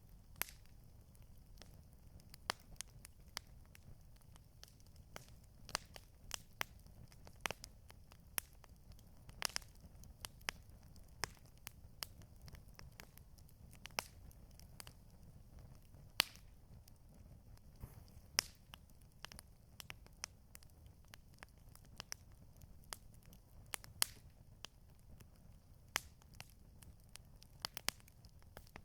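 Wood campfire crackling: irregular sharp snaps and pops of burning wood over a low, steady rumble.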